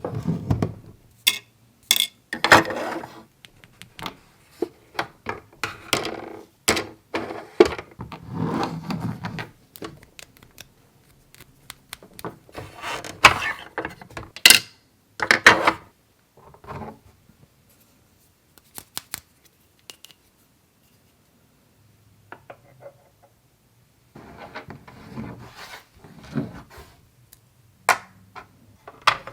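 Toy kitchen set pieces and toy food being handled: irregular taps, knocks, small clatters and rubbing as items are picked up and set down. A near-quiet stretch of several seconds falls in the middle.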